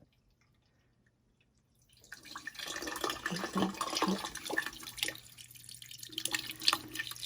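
Water poured into an air conditioner's PVC condensate drain pipe, splashing and trickling as it drains, starting about two seconds in after near silence.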